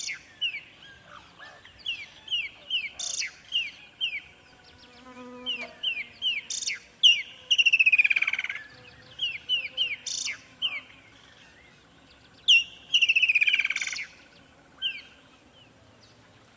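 Birds calling: a string of short, downward-slurred chirps, several a second, broken by a longer buzzy trill about eight seconds in and again near thirteen seconds.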